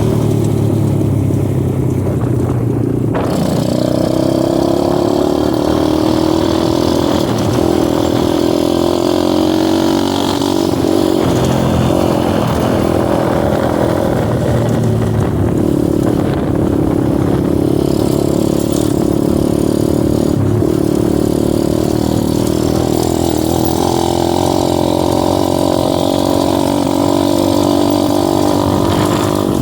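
Dirt bike engine running while riding, its pitch drifting up and down with the throttle.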